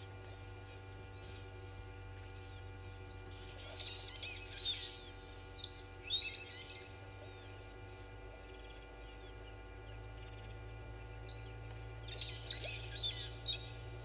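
Birds calling in two bursts of high, shrill chirps, about three seconds in and again about eleven seconds in, over a steady low hum.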